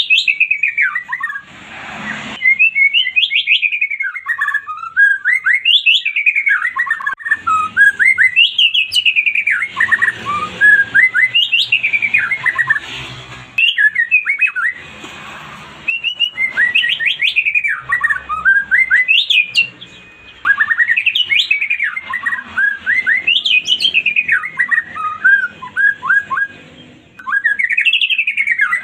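White-rumped shama (murai batu) singing: loud, repeated phrases of rapid whistled notes that sweep up and down, a new phrase every two to three seconds.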